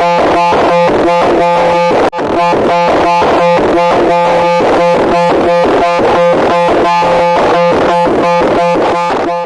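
Loud, harsh electronic buzzing: steady droning tones chopped into a rapid pulse of about five or six beats a second, with a brief break about two seconds in.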